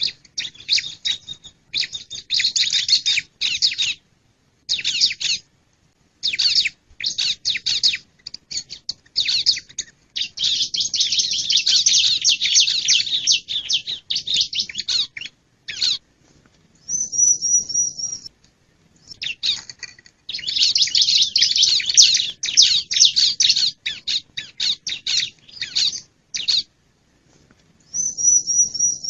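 Male ciblek (bar-winged prinia) calling: bursts of rapid, high chattering notes, some lasting several seconds, with short pauses between. About 17 seconds in comes a brief, higher, even trill.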